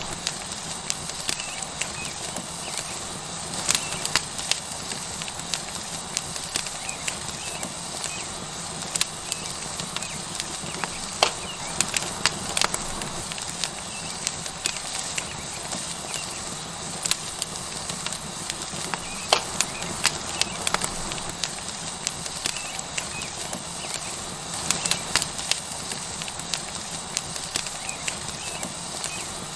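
Wood fire crackling with frequent, irregular sharp pops over a steady sizzle from a tomahawk steak searing on a hot rock.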